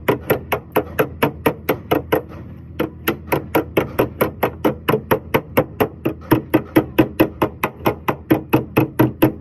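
Light hammer taps on a Toyota Corolla's sheet-metal body panel during paintless dent repair, evenly paced at about five a second with a brief pause between two and three seconds in: the knock-down stage of working a big dent flat.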